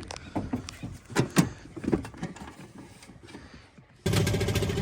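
Scattered metal clinks and knocks of hand tools being used on a boat motor. About four seconds in, a loud engine starts running abruptly and runs steadily.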